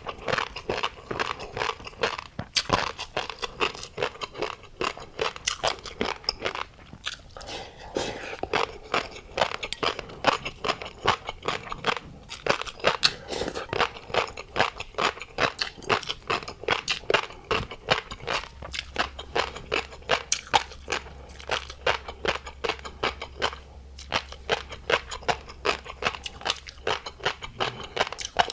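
Close-miked chewing of tobiko (flying fish roe) and seafood topping: a dense, fast run of small pops and crunches.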